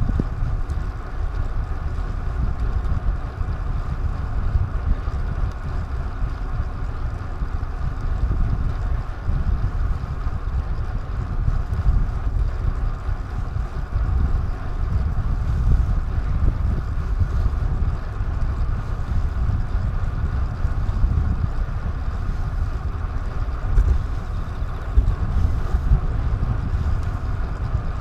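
Wind buffeting a DJI Action 2 camera's microphone while riding, a steady low rumble of wind and road noise that swells and eases a little.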